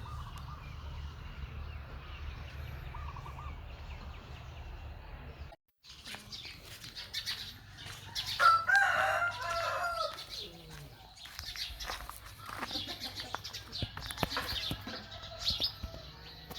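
Scattered rustling and clicking, with one loud pitched animal call about halfway through that ends in a falling glide. The sound drops out briefly just before the call.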